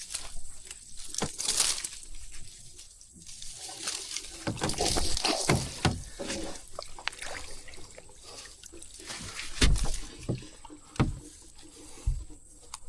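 Water splashing and sloshing as a small wild carp is handled at the water's edge, with a few knocks near the end.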